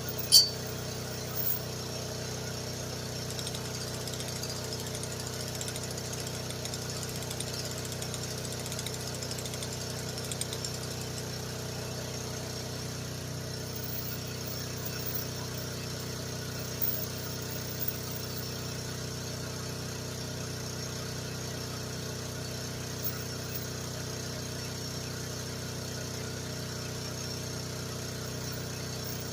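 GroundHog KH14G mini excavator's engine running steadily, with one sharp clank about half a second in and a few fainter knocks later on.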